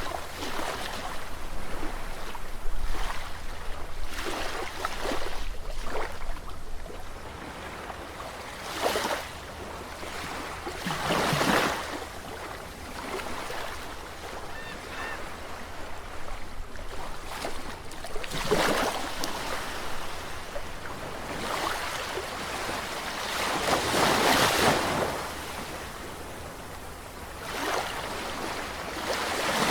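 Sea waves breaking and washing onto the shore, rising and falling in surges every few seconds over a constant rush of surf.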